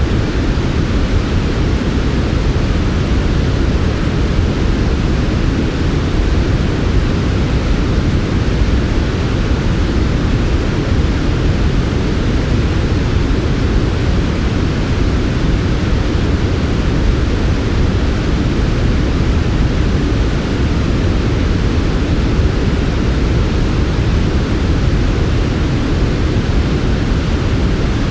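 Steady electronically generated sleep noise, sold as smooth white noise: an even, unchanging rush with most of its weight in the low end and a softer hiss above.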